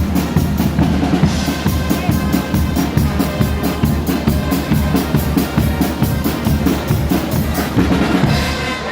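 Guggenmusik band playing loudly: a driving, even drum beat with bass drum and snare under sustained brass.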